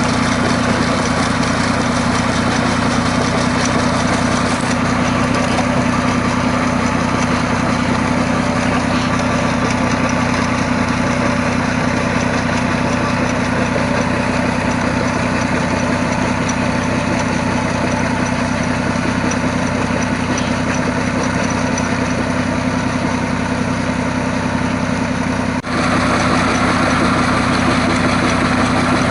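Fiat DT 45-66 tractor's three-cylinder Iveco 8035.06 diesel engine running steadily. The sound briefly drops out about three-quarters of the way through, then carries on.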